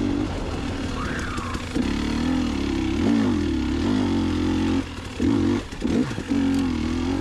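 Two-stroke dirt bike engine, a KTM 300 XC-W TPI with an FMF Turbinecore 2.1 spark-arrestor silencer, running under throttle on a trail. The revs rise and fall, with the throttle chopped briefly about three seconds in and again between five and six seconds.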